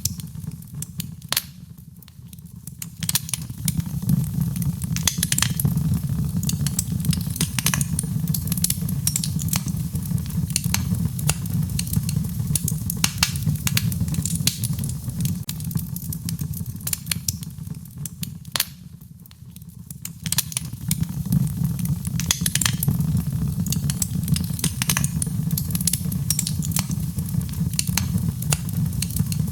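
Wood fire crackling and popping in a fireplace over a low steady rumble, mixed with rain. The whole mix dips down briefly twice, a couple of seconds in and again about two-thirds through, then comes back.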